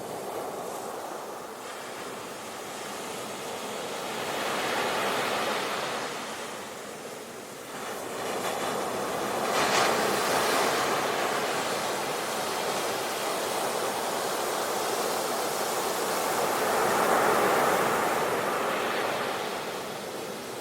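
Ocean surf: waves breaking and washing up one after another in slow surges that swell and ease. The sharpest break comes about ten seconds in, with another big swell near the end.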